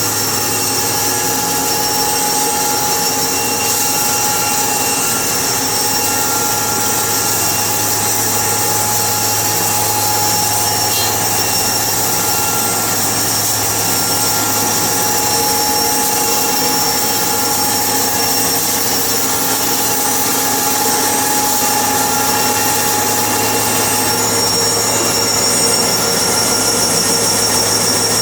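Sawmill running steadily: a constant machine drone with a steady high whine over it.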